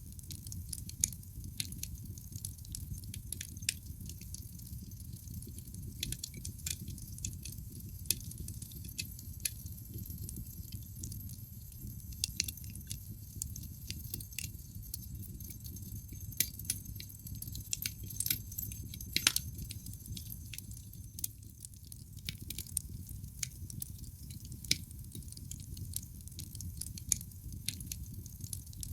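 Wood fire burning in a fireplace: irregular sharp crackles and pops from the burning logs over a steady low rumble of flame. One pop about two-thirds of the way through is louder than the rest.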